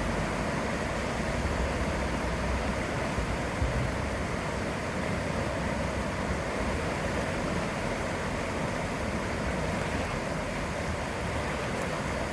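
Steady rushing of a river in flood, its fast, high water swollen by typhoon rain.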